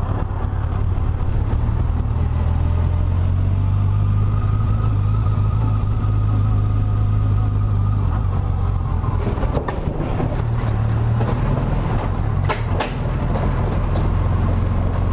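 2007 Yamaha FJR1300's inline-four engine running steadily under way, with road noise. The engine note eases about eight seconds in and picks back up a few seconds later.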